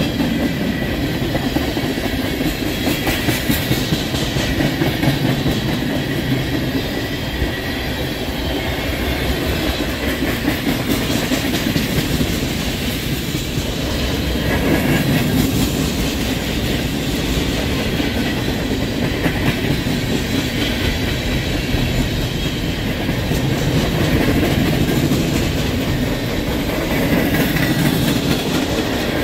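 Freight cars of a CSX train rolling past on the near track: a loud, steady rumble of steel wheels on rail from a string of tank cars, flatcars and boxcars.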